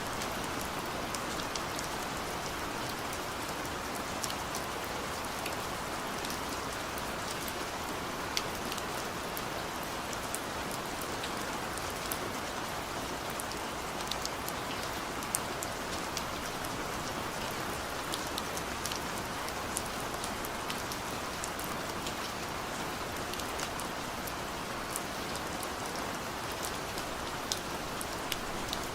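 Steady rain falling, with scattered close drops ticking sharply on a surface.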